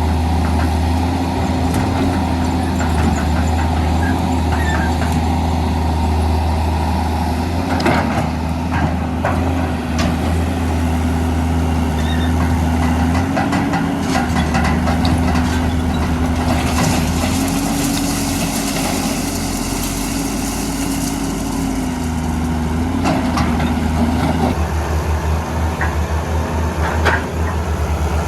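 Diesel engines of a Hitachi EX200 excavator and an Isuzu Elf dump truck running steadily, with a whine that wavers up and down in pitch as the machine works. Several sharp knocks of sand and rock are heard, and a hiss comes in about two-thirds of the way through.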